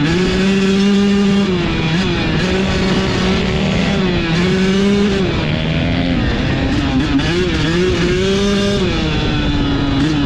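Dirt bike engine being ridden, its revs holding and then dropping and climbing again every second or two as the throttle opens and closes.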